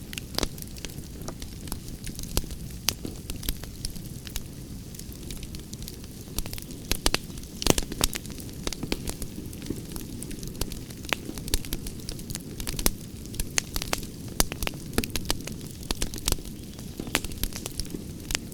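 Campfire crackling: irregular sharp pops and snaps, a few louder ones in the middle, over a steady low rumble of burning.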